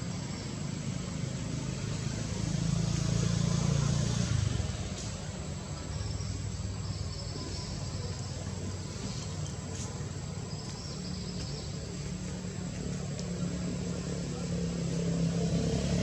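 Engine noise of passing road vehicles, a low rumble that swells about three to four seconds in and builds again near the end.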